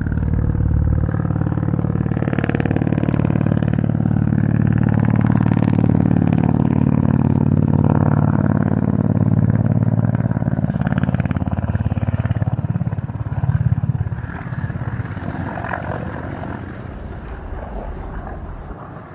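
A motor vehicle's engine running steadily and loudly, with a low, even drone that eases off over the last few seconds.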